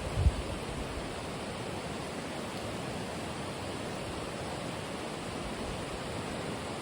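Steady, even rushing of water, with a brief low rumble of wind on the microphone just at the start.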